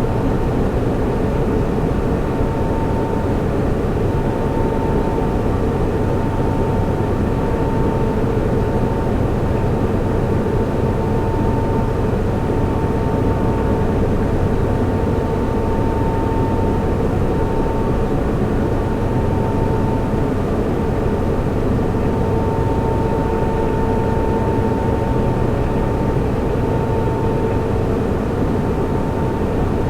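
Server room ambience: cooling fans running in a steady, even rush, with a constant hum carrying a few steady tones.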